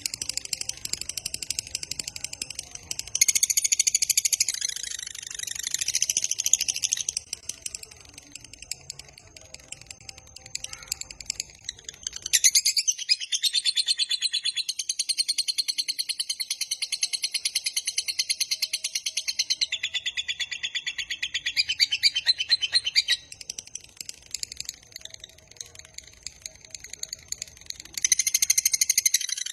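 Lovebird giving its long 'ngekek' song: rapid, high-pitched, shrill chattering trills in several long bouts, the longest lasting about ten seconds from near the middle.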